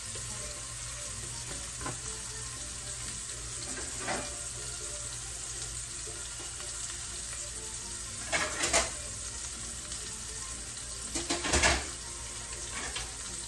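Meat sizzling steadily as it fries in hot grease in a pan, with two brief louder clatters against the pan about eight and eleven seconds in.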